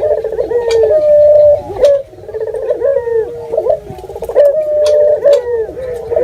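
Several puter doves (ringneck doves) cooing over one another in overlapping, rolling calls, with scattered sharp clicks mixed in.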